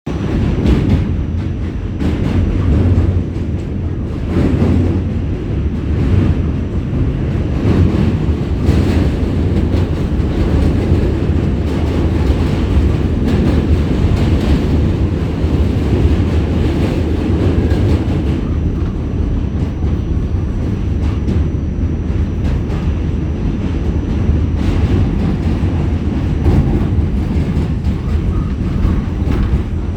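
New York City subway train running across the Manhattan Bridge: a loud, steady rolling noise of wheels on rails, broken by irregular clacks.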